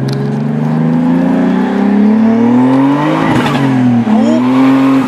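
Turbocharged BMW E36 328i straight-six accelerating hard under load, its engine note rising steadily through a gear. About three seconds in the note breaks with a short rushing hiss at the gear change, then climbs again in the next gear.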